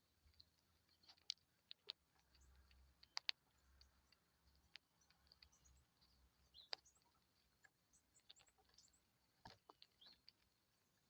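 Faint scattered sharp clicks and taps, a dozen or so at irregular times, with a few faint high chirps from small birds in the second half.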